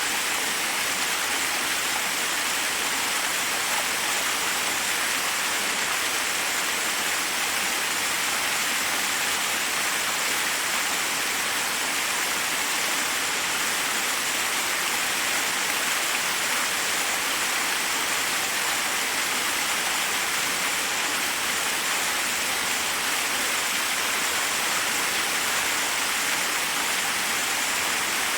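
Forest waterfall: water cascading over rocks in a steady, unbroken rush.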